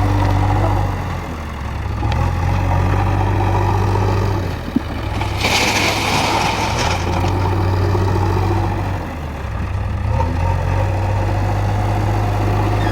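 JCB 3DX backhoe loader's diesel engine running, its speed dropping and rising again several times. A short burst of hiss comes around the middle.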